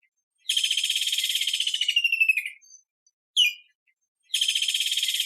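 Kingfisher calling: a short, sharp falling note, then about two seconds of rapid, rattling trill that drops slightly in pitch at the end. The call comes twice.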